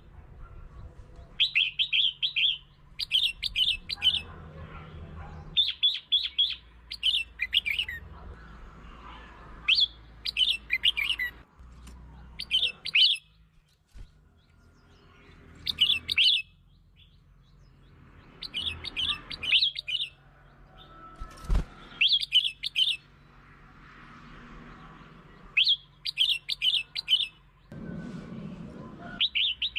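Red-whiskered bulbul singing: short phrases of quick, chirpy notes about a second long, repeated every couple of seconds.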